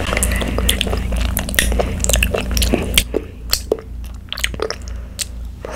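A child chewing tapioca pearls from bubble tea close to the microphones: a quick run of small mouth clicks, quieter in the second half.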